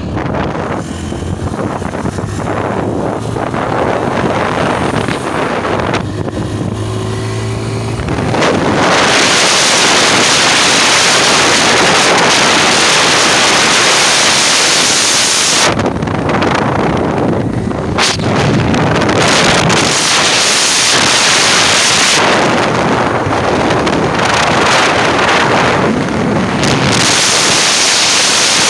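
Motorcycle engine running while riding, with a low engine hum and a few pitch glides at first. From about eight seconds in, heavy wind noise on the microphone takes over and stays loud to the end.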